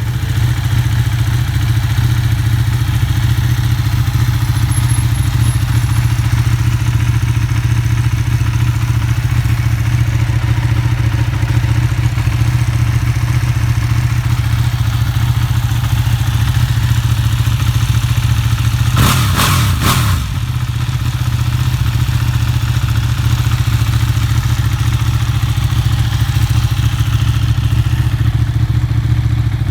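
Ducati 1299 Panigale's Superquadro L-twin engine idling steadily, with one quick throttle blip about two-thirds of the way through, the revs rising and falling back within about a second.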